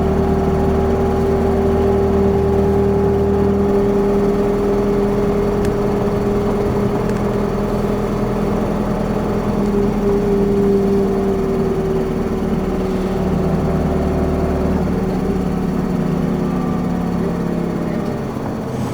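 Interior running sound of an Isuzu Erga city bus (2RG-LV290Q3): the diesel engine and driveline run at a fairly even pace with a steady whine, while a deeper rumble fades about four seconds in and returns later.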